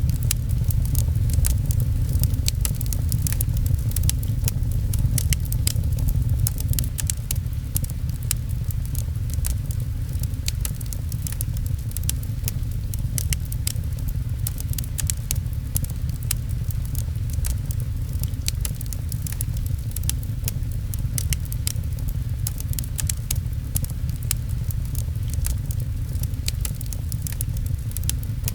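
Wood fire crackling with many small, irregular pops over a deep, steady rumble, mixed with the patter of rain on a window.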